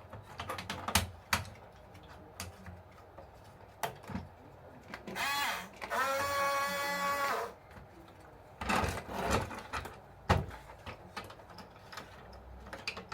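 Small electric motor whining for about two and a half seconds near the middle, rising in pitch as it spins up and then holding steady, with scattered clicks and knocks of small parts being handled before and after.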